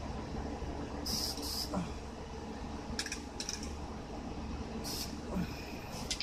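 Aerosol spray paint can spraying in short hissing bursts, each about half a second, several times, over a steady low rumble.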